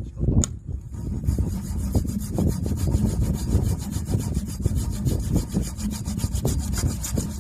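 A saw cutting through a log to make firewood, with steady, fast rasping strokes starting about a second in. A sharp knock comes just before it.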